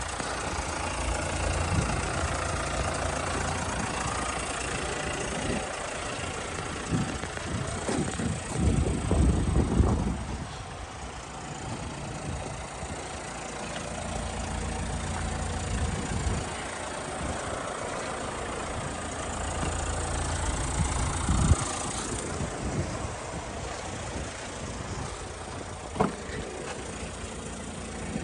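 2009 Hyundai Santa Fe engine idling steadily, with a low even hum and louder irregular rattling between about six and ten seconds in. A single sharp click sounds near the end.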